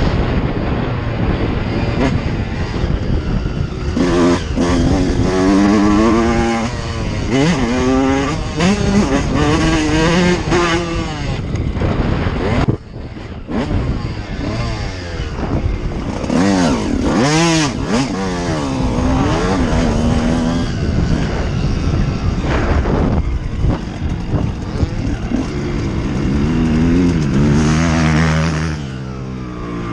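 Dirt bike engine being ridden hard, its pitch repeatedly climbing and falling with throttle and gear changes. About thirteen seconds in the sound drops off suddenly for a moment before the revving picks up again.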